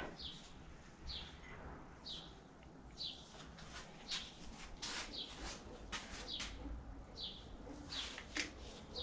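A bird chirping over and over, one short falling chirp about once a second, with faint scattered clicks.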